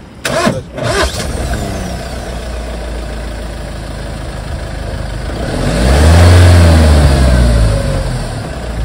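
Mahindra Thar's mHawk diesel engine idling, then revved once about six seconds in, the pitch rising and falling back over about two seconds.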